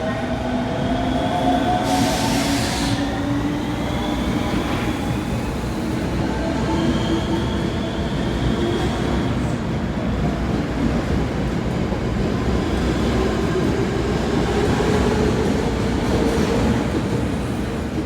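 Osaka Metro subway train moving along the platform, its traction motors whining in several tones that slowly climb in pitch over steady wheel-and-rail noise. The sound cuts off suddenly at the end.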